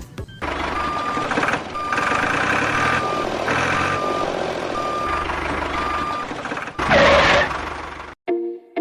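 A vehicle reversing alarm beeping about once a second, with single steady beeps, over the steady running noise of a truck engine. About seven seconds in, a louder rushing burst comes, then the sound cuts off abruptly.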